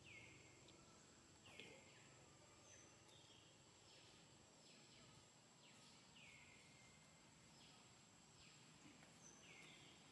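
Near silence with faint bird calls: short chirps that fall in pitch, repeated about once or twice a second, over a steady thin high tone.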